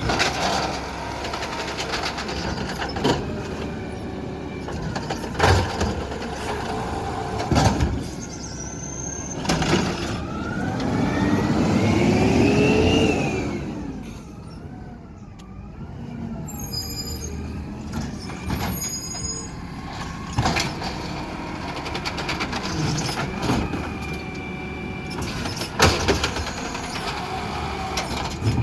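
Garbage truck at work. Its engine revs up and falls back about halfway through, with sharp clanks and bangs throughout and a spell of high squealing soon after the rev.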